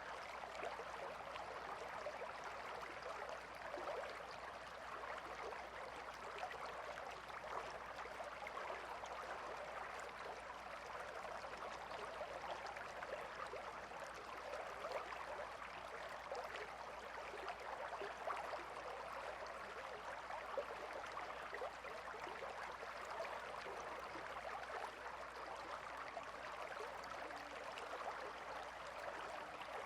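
A calm river flowing: a steady, even sound of running water with fine bubbling detail.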